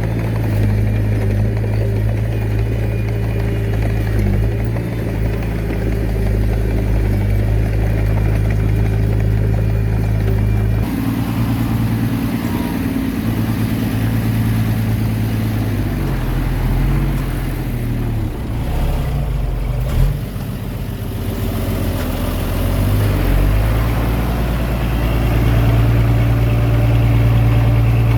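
Heavy diesel engine running at a steady working speed. It changes abruptly about a third of the way through, and the engine speed rises and falls in the middle, with a single knock.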